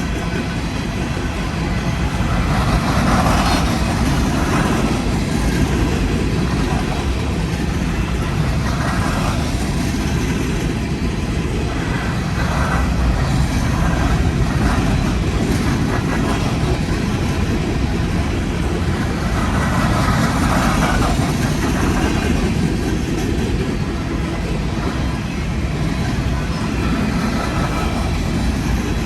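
Loaded grain and coal freight train rolling past with a steady, loud rumble of steel wheels on rail. Brief swells of clatter rise over it a few times.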